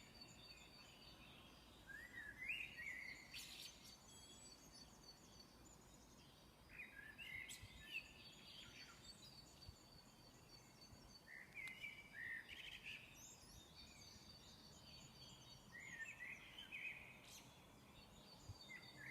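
Songbirds singing faintly at dawn: one bird repeats a short phrase of a few quick notes about every four to five seconds, over faint high twittering and a steady background hiss.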